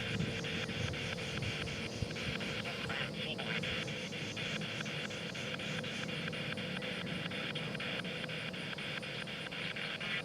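Spirit box radio sweeping through stations: hissing static chopped into rapid, even clicks at about five a second.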